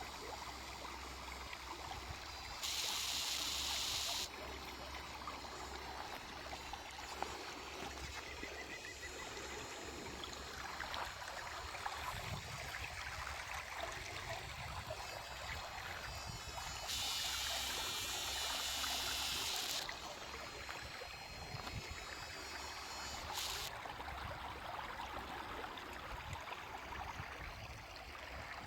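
Water running steadily, like a stream or trickle. Three times a higher hiss switches on and off abruptly: briefly about three seconds in, for about three seconds past the middle, and once more very briefly soon after.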